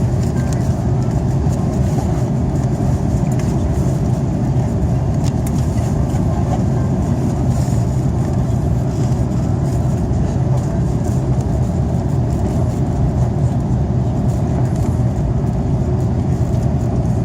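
Steady low rumble of an Airbus A330's engines and airflow, heard inside the passenger cabin.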